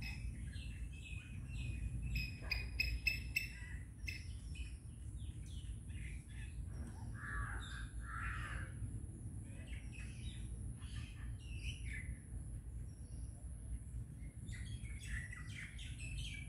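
Birds chirping: bursts of short, quick chirps, with two lower calls about halfway through.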